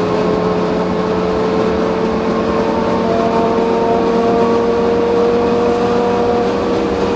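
Car engine and road noise at a steady cruise, the engine note rising slowly and evenly as the car gently gains speed.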